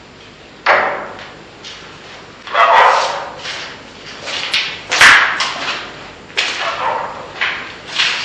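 A dog barking repeatedly, about six loud barks spaced irregularly.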